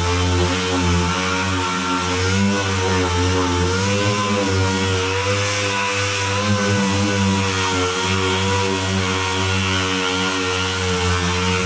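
A motor running steadily, its pitch wavering slightly without stopping.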